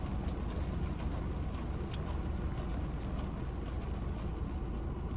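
Heavy rain pouring steadily over a low, even rumble.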